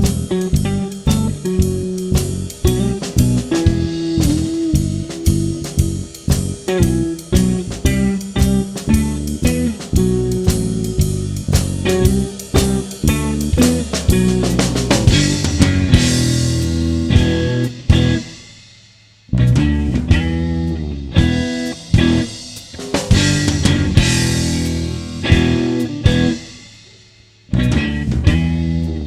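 Blues-rock band playing an instrumental intro: guitar riff over bass guitar and drum kit in short punchy stabs, the whole band stopping dead twice for a moment in the second half.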